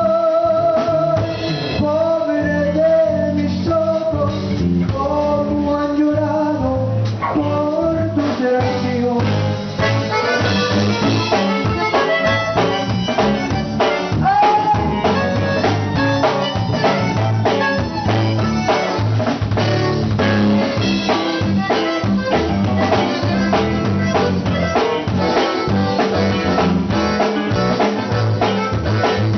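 Conjunto band playing live: a held melody for the first several seconds, then a fast run of notes from about eight seconds in, over a steady drum beat.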